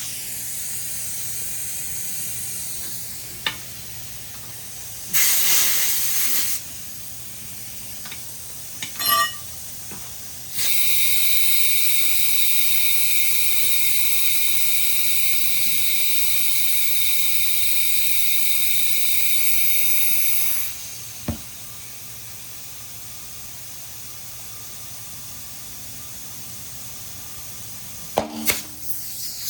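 Compressed air hissing through an air chuck into a newly mounted motorcycle tire, inflating it to seat the bead. It comes in spurts: a short blast, then a long steady hiss of about ten seconds with a whistling tone. A few sharp snaps come near the end.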